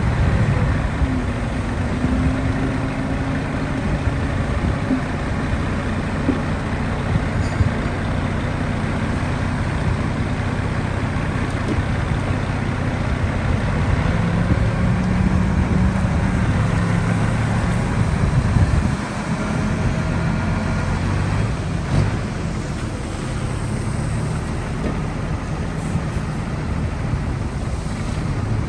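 Heavy diesel engine of earthmoving machinery running steadily under load, a low engine note that swells and eases a little, with a brief dip about two-thirds of the way through.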